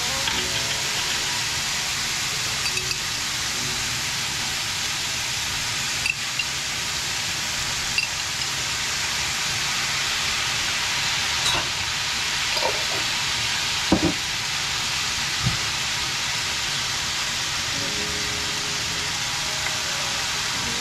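Chicken, green bell pepper and red onion sizzling steadily in a hot cast-iron skillet, with a few short clicks and knocks along the way.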